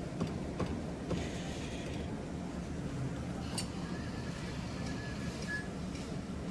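Claw machine in play: a steady low hum with a few light clicks, a sharp click about halfway through, and a faint held beep a little later.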